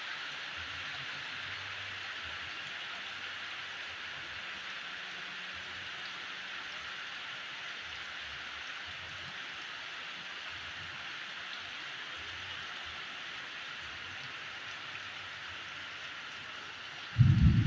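Heavy rain falling, a steady even hiss. Near the end a few loud low thumps break in.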